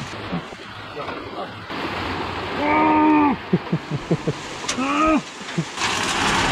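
Heavy rain pouring down, a steady hiss that grows louder near the end. About halfway through there is a held vocal call, then a run of soft knocks and a second, shorter call.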